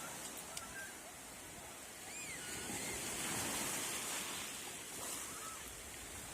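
Sea waves washing onto the shore, a steady surf noise that swells about halfway through and eases off again.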